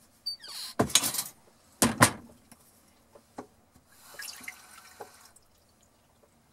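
Water splashing and dripping as a little is poured from a small cup into a foil pan of chicken, with a couple of sharp knocks or clatters about one and two seconds in and light ticks after.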